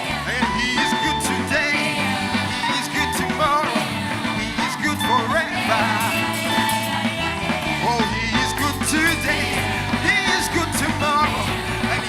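Live band playing a song with a singer's voice, over a steady bass line and repeated cymbal hits.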